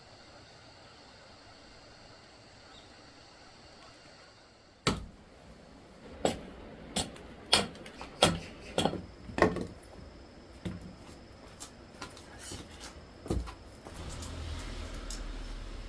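A sharp knock about five seconds in, followed by a run of irregular knocks and clatters over the next several seconds. Near the end a hand saw starts rasping through wood.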